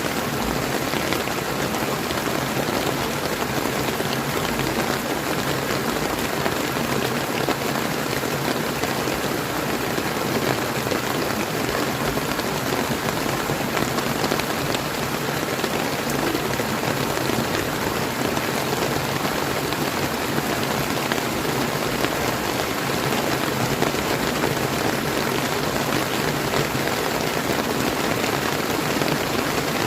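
Steady rain falling over the flow of a clear river, an even hiss with no distinct drops or thunder standing out.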